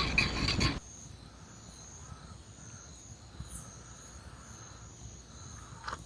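Faint night insects chirring steadily, after a loud rush of noise that cuts off suddenly under a second in.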